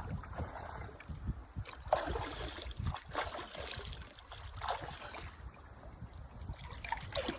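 Shallow river water sloshing and splashing, with a few louder splashes now and then, as a dog wades about in it searching; wind rumbles on the microphone.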